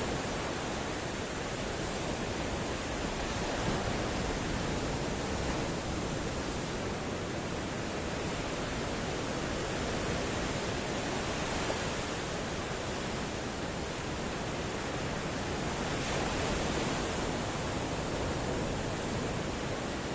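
Ocean waves breaking on the shore: a continuous rush of surf that swells slightly every few seconds.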